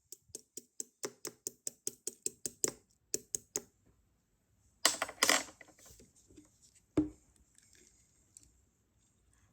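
Quick light tapping, about four taps a second for a few seconds, then a loud crinkling rustle lasting about a second and a single knock.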